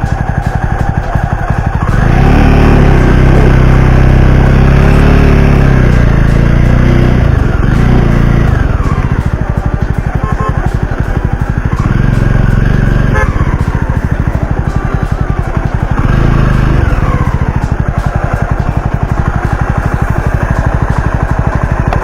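Jawa 42 motorcycle's single-cylinder engine running under load, louder for a stretch a couple of seconds in, with the revs rising and dropping several times as it pulls up a slope.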